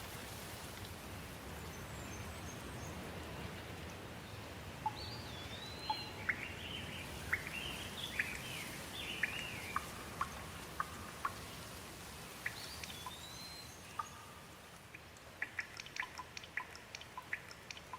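Steady rain with birds calling in short rising and falling chirps through the middle, then a run of quick water drips near the end.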